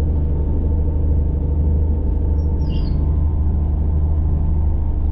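Steady low rumble and hum of a moving passenger train, heard from inside the carriage, with one brief high chirp about two and a half seconds in.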